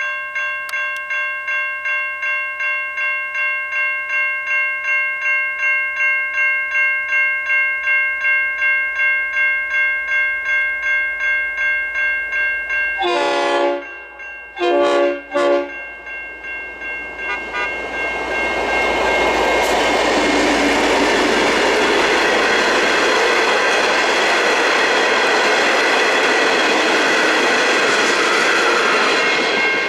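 Electronic level crossing bells ringing in a steady fast pulse. About halfway through, a train horn gives three short blasts. The train then passes over the crossing, and its loud, steady wheel-on-rail noise all but drowns the bells.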